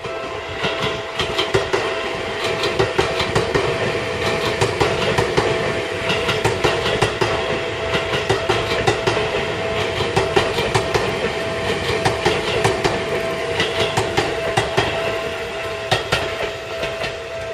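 Electric train running past, its wheels clacking over rail joints, with a steady tone held throughout.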